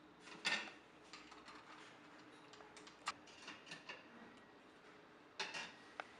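Irregular light clicks and taps of small hard jewelry-making tools and parts being handled, with a louder cluster about half a second in and another near the end.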